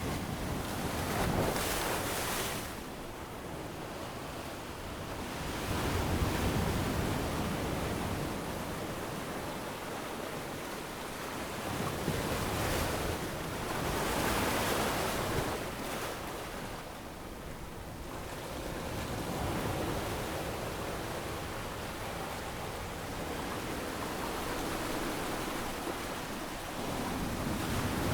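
Ocean waves breaking and washing up on a sandy beach, the surf swelling and ebbing every few seconds.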